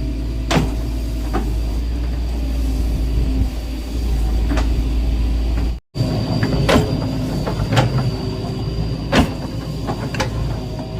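Excavator's diesel engine running steadily, with repeated sharp clanks and knocks from the machine at work. The sound cuts out abruptly for a moment about six seconds in.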